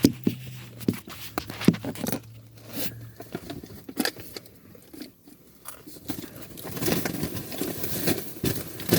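Scattered clicks, rustles and crunches of snack food and packaging being handled and eaten, with denser rustling in the last couple of seconds.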